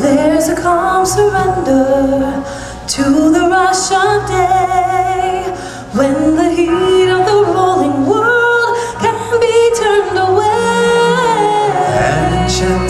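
A song sung by a lead voice with vibrato, in phrases of a few seconds, over sustained accompaniment chords.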